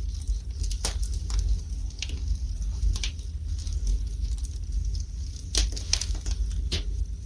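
Wood fire burning in a fireplace: irregular sharp crackles and pops, a few each second, over a steady low rumble.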